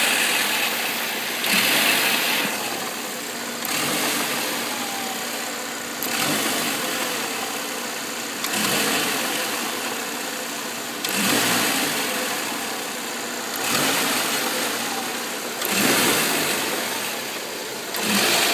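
Saab 9-3's engine idling roughly, its revs rising and dropping back every two seconds or so, nine surges in all: a rough-running engine.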